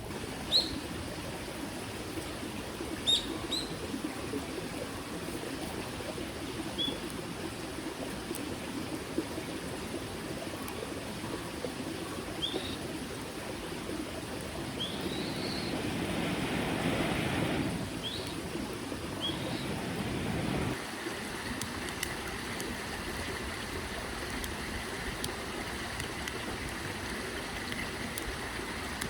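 Small mountain stream running steadily, with short high bird chirps dotted through the first two-thirds. Past the middle a louder rush swells for a few seconds and then cuts off abruptly.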